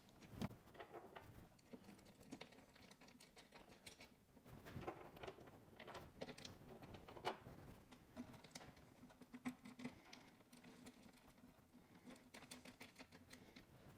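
Faint, irregular small clicks and light taps of bolts, nuts and washers being handled and fitted by hand to a metal air chuck mount.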